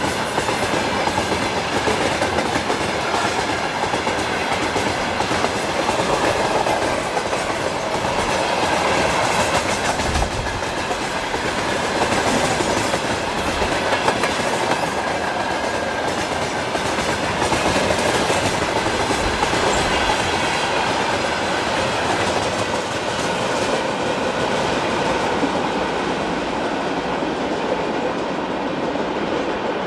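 Freight train wagons rolling past, their wheels clattering on the rails in a steady, loud, continuous noise.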